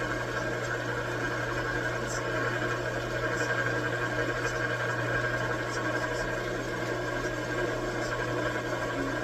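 Metal lathe running steadily with an even motor hum, a few faint high ticks scattered through it.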